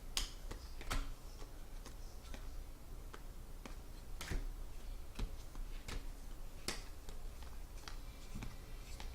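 Trading cards being handled on a table: irregular light clicks and taps as cards are flipped and set down, a few sharper ones standing out.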